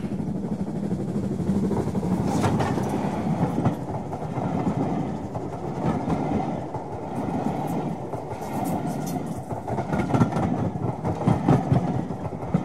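A train running past: a steady rumble of rolling coaches with irregular wheel clatter over the rails.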